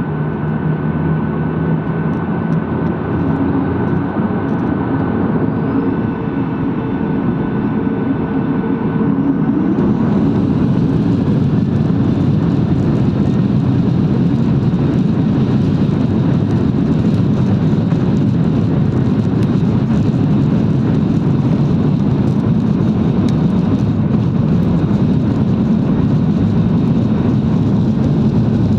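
Jet airliner's engines heard from inside the cabin, running up for takeoff: a steady rumble with a whine that grows louder about nine seconds in and then holds at takeoff power.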